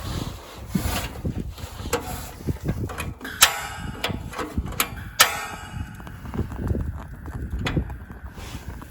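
Strong wind gusting and buffeting the microphone, with irregular rustling and a few sharp snaps, about three and a half and five seconds in.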